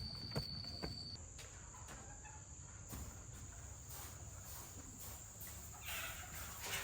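Faint farm ambience: a steady high-pitched insect drone that shifts to a higher pitch about a second in, with faint chicken sounds.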